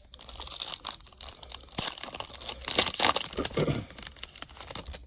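Foil trading-card pack wrapper crinkling and tearing as it is handled and opened, with irregular crackles and small clicks.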